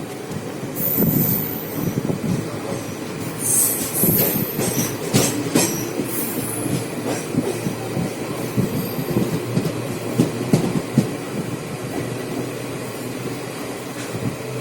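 Passenger train running on the rails: a continuous rumble with irregular knocks and clatter from the wheels and coaches, and thin high wheel squeals in the first half.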